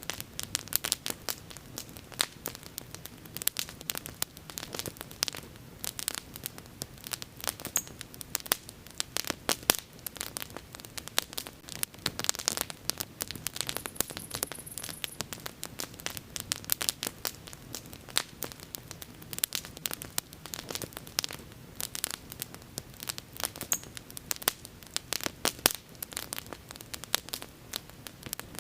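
Bonfire crackling: a dense, irregular run of sharp pops and snaps from the burning wood over a soft low rush of flame.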